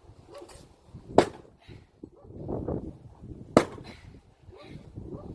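Wide-bladed splitting axe striking firewood twice, two sharp cracks about two and a half seconds apart.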